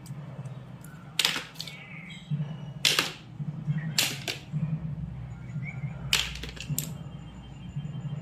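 About five sharp clicks or taps at uneven spacing, the first followed by a brief ringing tail, over a steady low hum.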